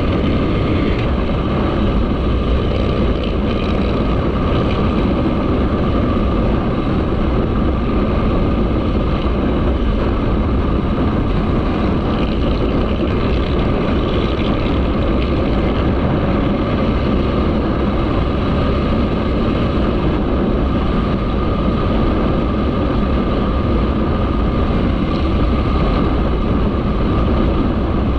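Motorcycle running at a steady speed while being ridden, with a steady rush of wind on the microphone and no revving or gear changes heard.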